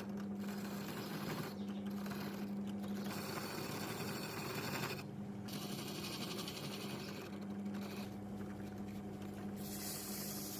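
A small motor running with a steady hum.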